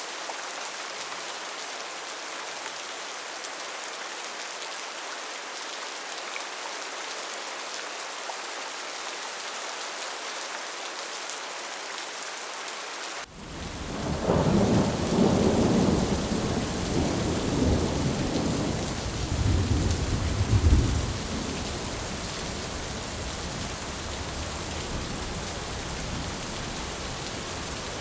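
Steady rain on a tin roof. About halfway through, after a sudden break, a long thunder rumble rolls for about seven seconds, loudest near its end, then the rain keeps falling.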